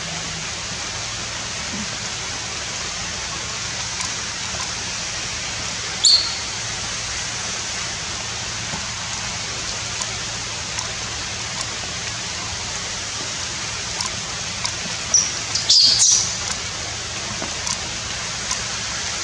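Steady hiss of rain in forest, with one short high-pitched chirp about six seconds in and a brief cluster of high chirps and squeaks near the end.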